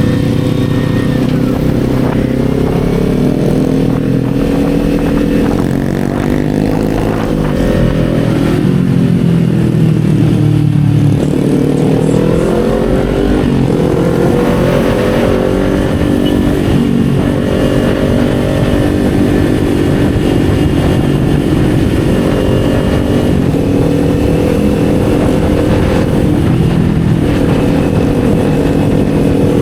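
Kawasaki Z400's parallel-twin engine running while riding, its pitch rising and falling with throttle and gear changes, with a marked dip about ten seconds in before it climbs back.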